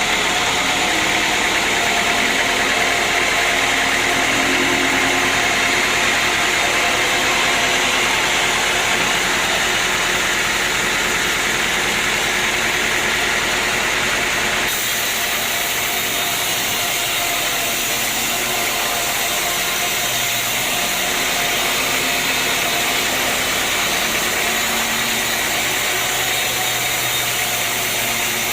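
Sawmill machinery running steadily, with an engine-like hum and some steady tones. The sound changes abruptly about halfway through.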